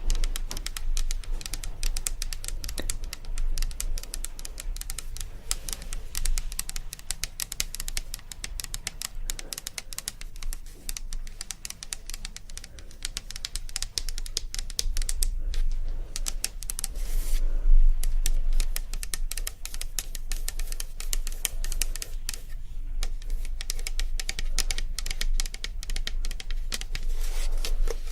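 ASMR tapping: rapid, dense clicks many times a second, with a louder burst of noise about seventeen seconds in.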